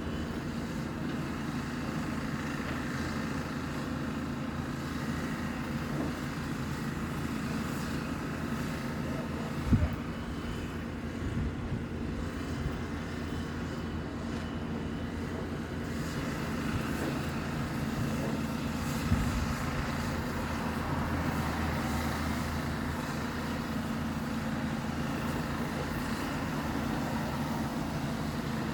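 Steady drone of heavy diesel machinery running on a demolition site, with two sharp thuds about ten and nineteen seconds in.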